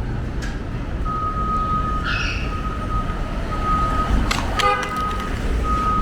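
A truck's reversing alarm beeping: a single high tone that starts about a second in and switches on and off every half second to a second. Under it is a steady rumble of street traffic, with a brief sharp clatter just after four seconds in.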